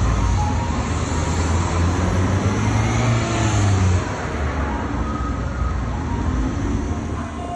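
A motor vehicle's engine running close by with a low rumble and road noise. It is loudest for the first four seconds, then drops lower.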